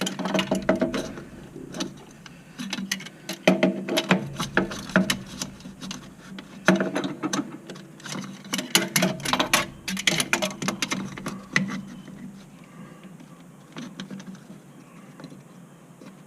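Irregular rustling and clicking of hands and a rag gripping and twisting a spin-on hydraulic filter to snug it down, in uneven clusters with short pauses.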